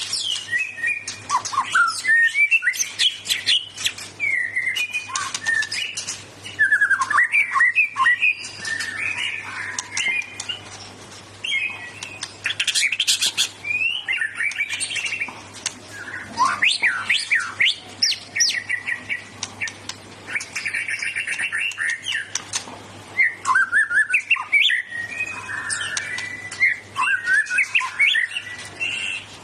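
White-rumped shama (murai batu) singing loudly and almost without pause: a fast, ever-changing run of sweeping whistles, trills and rapid sharp notes, including the loud bursts keepers call 'tembakan' and a wide repertoire of learned phrases.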